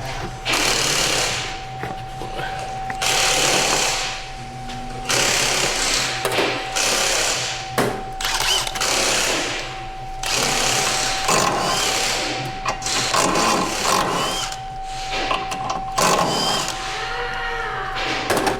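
A power tool in a repair shop run in about ten short bursts of one to two seconds each, a rapid rattling run with brief pauses between, as the wheel and axle hardware are taken off for an axle boot job.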